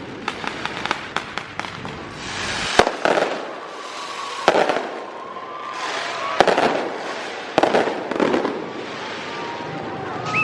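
Fireworks going off: a string of sharp cracks and bangs, with swells of hissing crackle every second or two and a few faint whistles.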